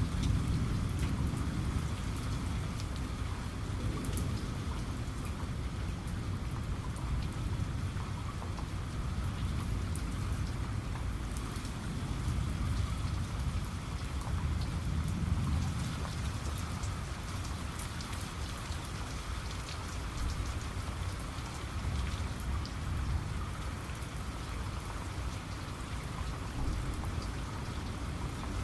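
Steady rain with many individual drops ticking, over a low rumble of distant thunder that swells about halfway through.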